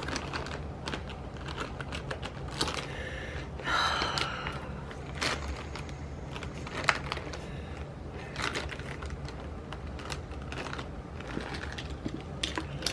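Light, irregular clicks and taps of pens and paper planner supplies being handled on a desk, with a brief squeak about four seconds in.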